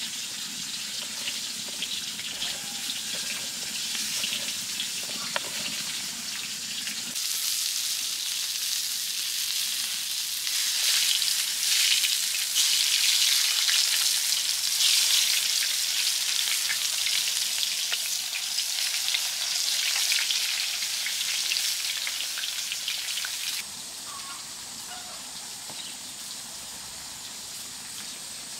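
Food sizzling as it fries in a hot pan: a dense, even hiss that grows louder about a quarter of the way in and drops abruptly near the end.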